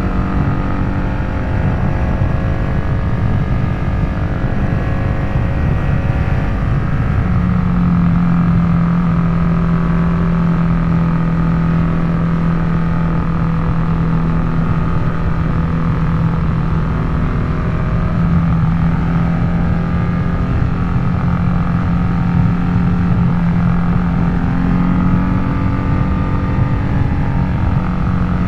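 Harley-Davidson Nightster V-twin running through a Jekill & Hyde valve-controlled exhaust while riding. The engine note wavers at first, then holds steady at an even cruising pitch from about seven seconds in.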